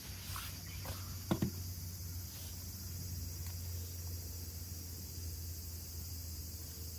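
Steady high drone of summer insects, with a few light clicks and knocks in the first second and a half.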